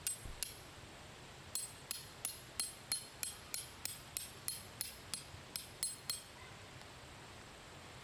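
Tent stake being driven into the ground with a hammer: two blows, then a steady run of about fifteen strikes, roughly three a second, each with a short ring.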